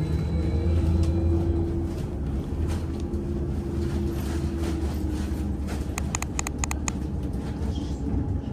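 VMZ Avangard trolleybus in motion, heard from inside: a steady hum from the electric drive over road rumble. About six seconds in comes a quick run of short sharp clicks.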